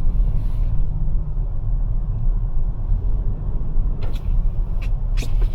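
Steady low rumble of road and tyre noise inside the cabin of a Toyota RAV4 Prime driving on snow-covered roads on Blizzak snow tires, with a few faint clicks near the end.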